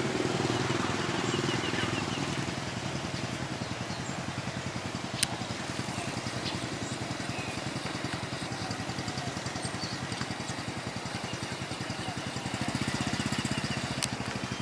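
Diesel train running as it pulls away along the line, its low engine sound fading over the first couple of seconds. Under it throughout is a steady, rapid pulsing of an engine idling close by, with two sharp clicks, one about five seconds in and one near the end.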